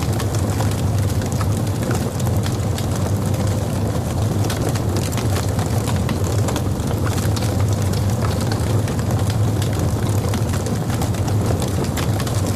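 Logs burning in a fireplace: a steady low rumble of the flames with frequent small, sharp crackles and pops.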